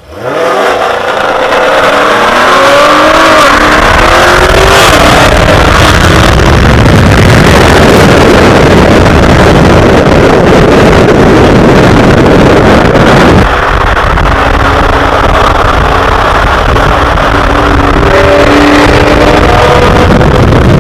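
Dodge Charger Hellcat's supercharged 6.2-litre V8, run with a muffler delete, going suddenly to full throttle and accelerating hard, its pitch climbing through the first few seconds. It then runs loud and steady at speed, and the level drops suddenly about thirteen seconds in as the throttle eases.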